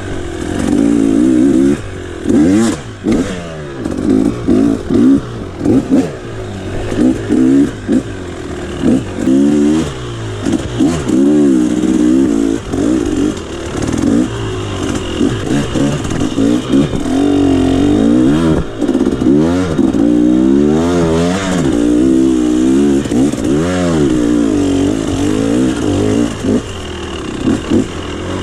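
Dirt bike engine revving up and down over and over as the throttle is opened and closed, with scattered knocks and clatter.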